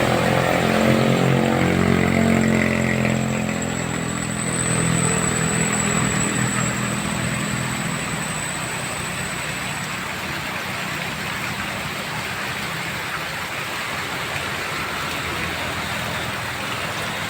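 A vehicle's engine passes as it pulls up the climb, loudest for the first few seconds and fading out after about eight seconds. It leaves a steady hiss of heavy rain and wet road.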